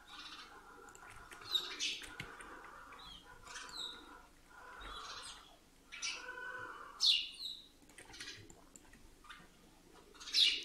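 Faint bird chirps: a few short calls that sweep in pitch, scattered a second or two apart, the loudest near the end. Faint computer-mouse clicks and wheel scrolling in between.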